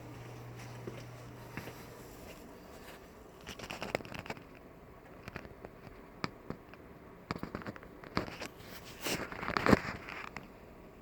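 Wood fire crackling and popping in a cast-iron fireplace, irregular snaps with a louder cluster near the end. A low hum stops about two seconds in.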